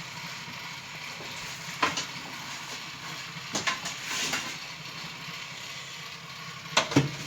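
Baking tray going onto an oven rack: a few short knocks and clinks about two, three and a half and four seconds in, and a louder clatter near the end, over a steady low hum.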